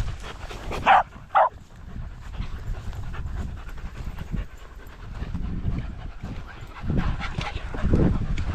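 Dogs panting hard during a brisk walk, with two short, sharp, higher-pitched sounds about a second in.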